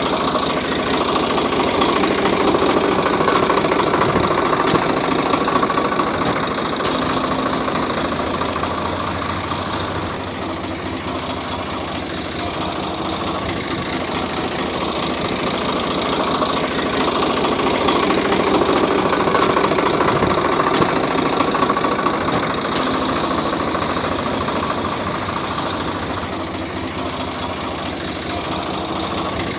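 Small motor and gears of a miniature model tractor running steadily, the whirring growing louder and softer twice.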